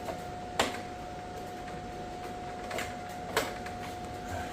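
Short sharp plastic clicks and knocks, three clear ones and a softer one near the end, as a replacement circuit board is pressed and clipped into a Worcester Bosch boiler, over a steady thin high hum.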